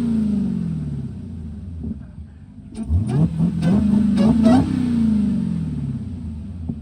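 Supercharged Hemi V8 of a Dodge Hellcat revving while the car drifts on snow. The revs fall away over the first two seconds, then the throttle is opened sharply about three seconds in. The engine is held high and wavering for a second and a half, then the revs fall off again.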